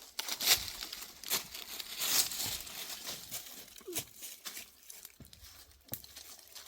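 Irregular crinkling and crackling handling noises: a string of short rustling bursts with a few sharp clicks.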